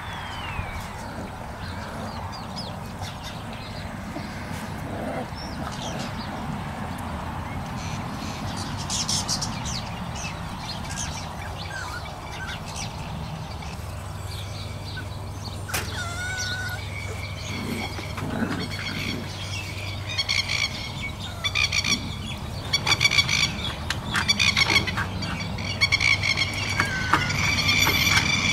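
Outdoor ambience of birds chirping over a steady low hum; the chirps become busier and louder in the last ten seconds.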